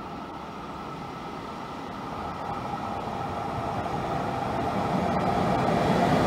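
Intercity train hauled by an E414 electric locomotive approaching at speed, its running noise rising steadily in loudness as it nears.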